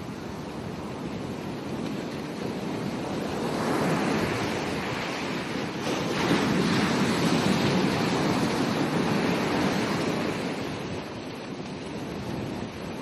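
Ocean waves breaking on a beach: the surf swells up a few seconds in, is loudest in the middle as a wave crashes and washes in, then falls back.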